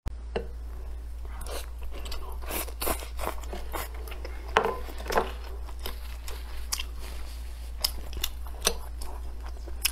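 A person chewing food close up, with irregular crisp crunches and mouth clicks, the loudest about four and a half and five seconds in, over a steady low hum.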